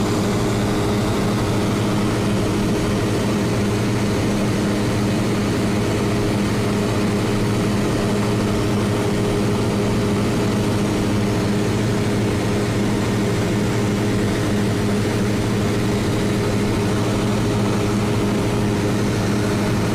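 Cessna 172's piston engine and propeller running steadily, a constant drone with an even hum and no change in pitch.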